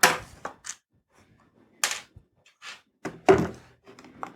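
Hard plastic knocks and clunks as the battery pack of a Dyson cordless hand vacuum is worked loose and slid out of the vacuum's body. A handful of separate thunks with short quiet gaps, the loudest about two and three seconds in.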